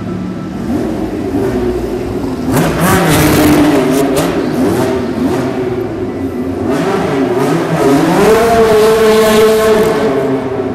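Racing car engine revved twice: the pitch climbs about two and a half seconds in, settles, then climbs again near eight seconds and holds before dropping back.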